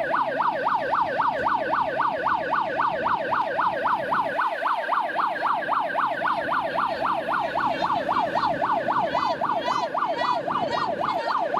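Evacuation alarm sounding: a fast, steady rising-and-falling electronic tone, about four to five sweeps a second, signalling the cabin to evacuate.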